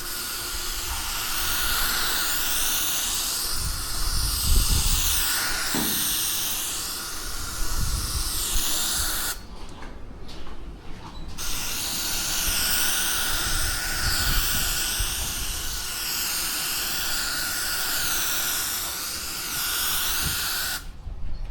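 Compressed air hissing from an air blow gun, in two long blasts of about nine seconds each with a short break in the middle, with a faint steady whistle in the hiss.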